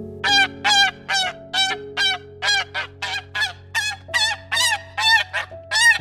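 A bird calling over and over in short calls, about two or three a second, each call rising and falling in pitch. Music with held low chords plays underneath.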